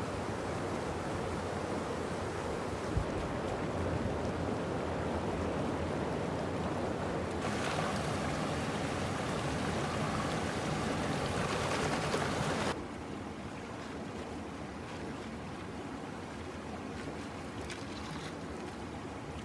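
River water rushing: a steady noise that turns brighter about a third of the way in, then abruptly drops to a quieter, duller rush about two-thirds through.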